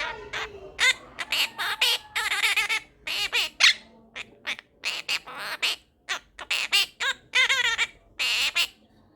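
Monk parakeet (Quaker parrot) vocalising in a rapid string of short squawks and chattering, wavering notes, stopping near the end.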